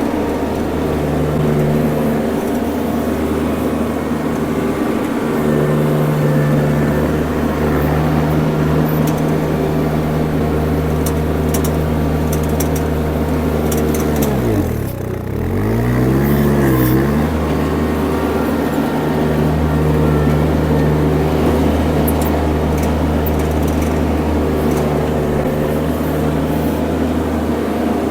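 Mini skid steer engine running steadily at working speed; about halfway through its pitch drops sharply and climbs back with a waver, as the engine is lugged down and recovers.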